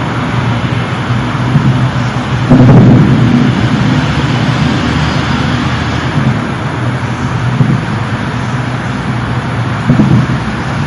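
A low, rumbling drone of the kind reported as an unexplained "strange sound", under a steady rush of noise. It swells loudest about two and a half seconds in and again near the end.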